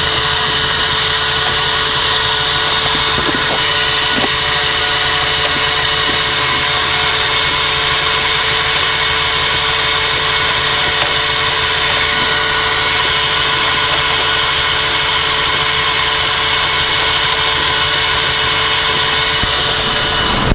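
1989 Toyota Celica GT4 rally car's turbocharged four-cylinder engine idling steadily.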